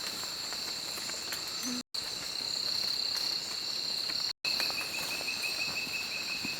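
Rainforest insect chorus: a steady high-pitched buzzing drone, joined about two-thirds of the way through by a second insect's rapid pulsed chirping at a lower pitch. The sound cuts out completely for an instant twice.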